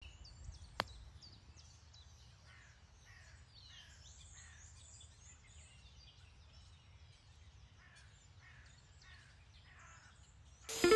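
Small birds chirping and calling throughout over a faint low rumble, with one sharp click about a second in: an iron striking a golf ball. Music starts just before the end.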